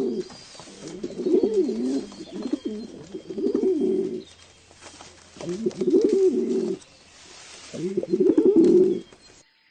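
Pigeon cooing in a run of low, rolling phrases with short pauses between them; the sound cuts off suddenly near the end.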